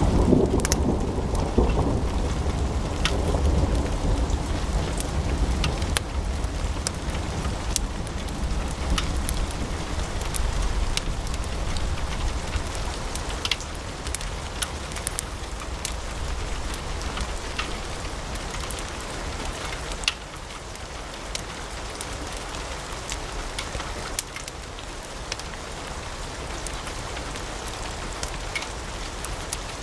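Wood fire in a fireplace crackling, with many sharp pops over a steady hiss. A deep rumble sets in suddenly at the start and fades away over about ten seconds.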